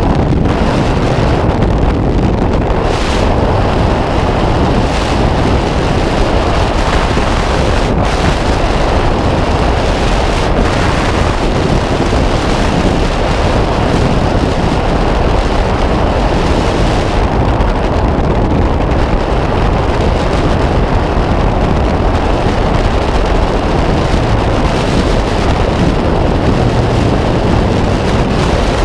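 Steady, loud rush of freefall wind over a skydiver's camera microphone.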